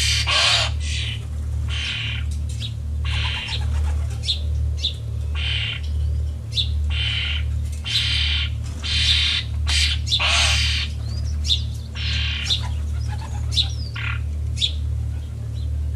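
Small wild birds chirping repeatedly, short calls about once a second, over a steady low hum.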